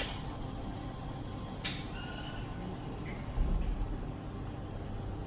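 Steady low rumble of machinery or a vehicle, with a sharp click about a second and a half in and a brief low thump midway.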